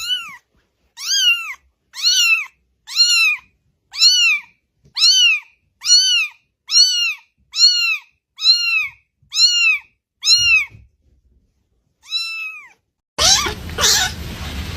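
Kitten meowing over and over, about once a second, each a short high call that rises and then falls in pitch. After a short pause near the end, the calls come louder over a hissy background.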